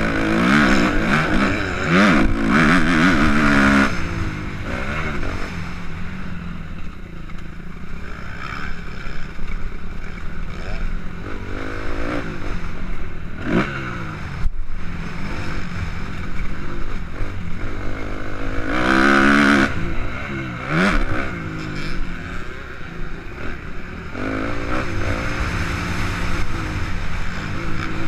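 Suzuki RM-Z 250 motocross bike's four-stroke single-cylinder engine being ridden, revving up and falling off again and again through gear changes, loudest in the first few seconds and again about two-thirds of the way through.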